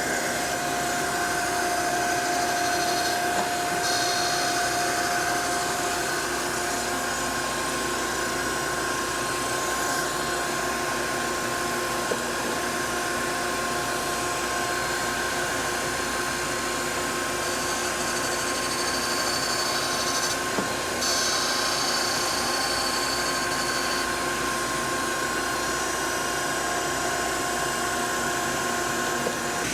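Gallmeyer & Livingston No. 55 surface grinder running steadily with its wheel spinning during grinding passes. A bright high-pitched hiss comes and goes over the steady machine noise.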